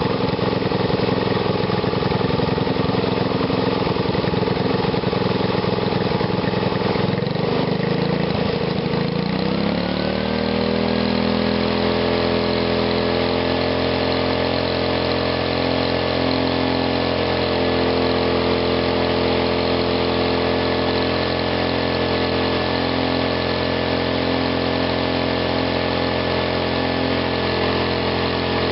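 Engine running through a home-built GEET fuel reactor. It is held at high revs, then the throttle comes back about nine seconds in and it drops to a steady idle for the rest.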